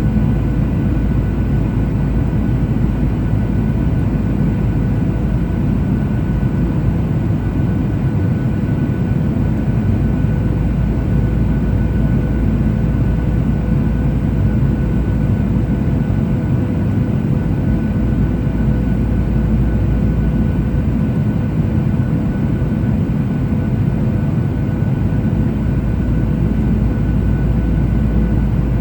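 Cabin noise of a Boeing 737-800 in flight: the CFM56 turbofans and airflow make a steady low rumble, with a few thin steady whining tones above it.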